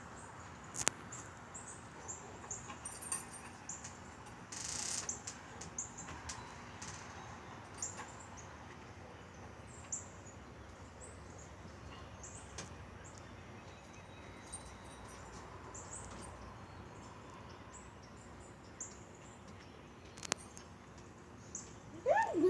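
Small birds chirping repeatedly in short high notes, with a few faint clicks and a brief rustle about five seconds in. A short falling pitched call comes right at the end.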